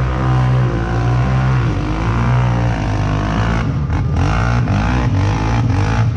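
Mud-run vehicle's engine revving hard, its pitch rising and falling as the throttle is worked, with short choppy dropouts in the second half.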